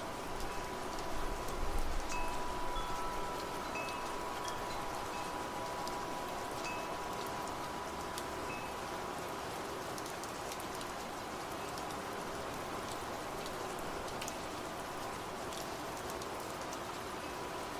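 Steady rain with drops ticking, and wind chimes ringing a few notes in the first half, one long note fading out about ten seconds in.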